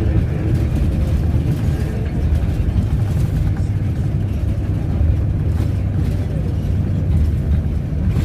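Steady low rumble of a moving road vehicle's engine and tyres, heard from inside while driving.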